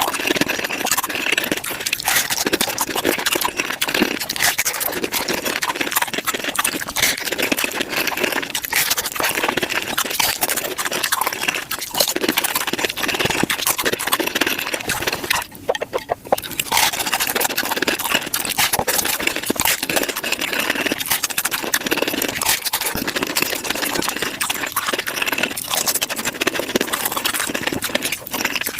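Close-miked eating sounds sped up to five times speed: tacos being chewed and crunched, heard as a dense, rapid stream of crackles and clicks, with a brief lull about halfway.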